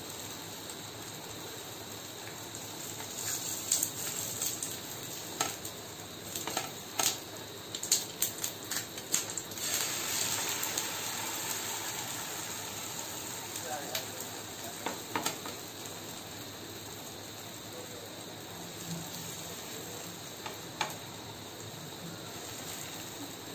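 Malpua batter frying in oil in a flat pan with a steady sizzle. A slotted metal spatula knocks and scrapes against the pan in a quick run of clicks from about three to ten seconds in, with a few more later.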